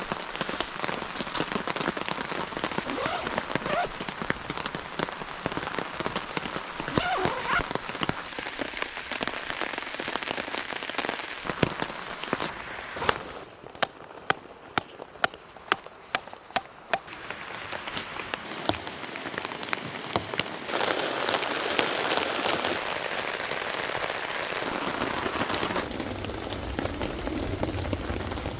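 Heavy rain falling on surfaces, a dense hiss of drops whose character shifts between shots. In a quieter stretch about halfway through, a run of sharp taps about two a second stands out.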